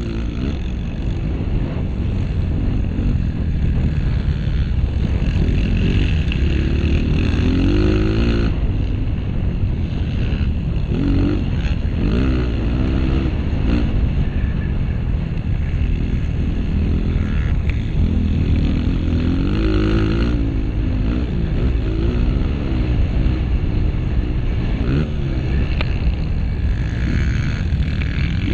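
Honda CRF230 motocross bike's single-cylinder four-stroke engine under race riding, revving up and easing off again and again, its pitch climbing and dropping every few seconds over a steady low rumble.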